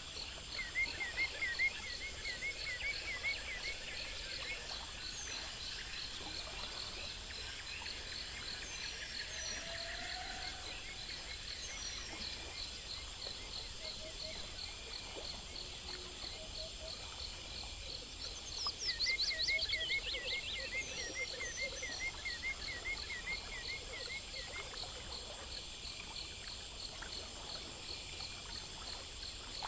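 Steady night chorus of insects chirping in several even, high-pitched pulsing rhythms. A faster trilling call joins in twice, near the start and about two-thirds of the way through.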